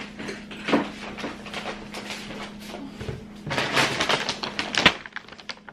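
Rustling and handling noises with scattered clicks and a few sharp knocks, over a steady low hum.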